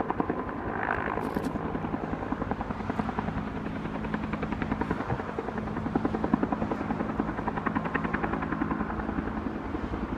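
Logging helicopter in flight: its rotor blades beat in a rapid, steady chop over the engine's constant drone, as it heads back empty for another load of logs.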